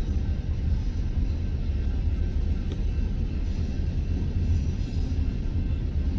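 Union Pacific double-stack intermodal freight train of container-laden well cars rolling past: a loud, steady low rumble of the cars and wheels on the rails.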